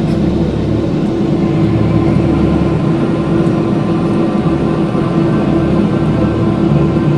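Steady jet engine and rushing air noise inside an airliner cabin after takeoff, with a constant low drone.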